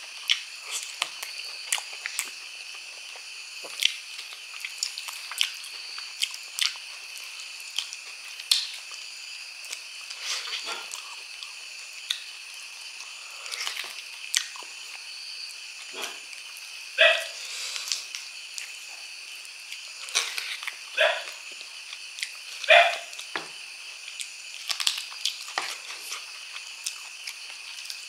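Close-up eating sounds of a man gnawing a braised pork trotter: wet smacking and chewing with many short, sharp clicks of lips and teeth, and a few louder slurping bites in the second half.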